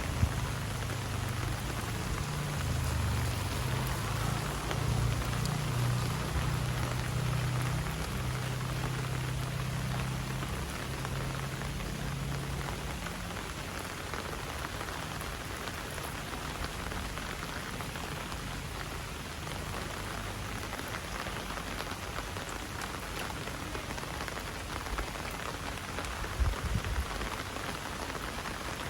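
Heavy rain falling steadily, an even hiss of drops on surfaces. A low rumble runs under it for the first half, then dies away, and there is a short low thump near the end.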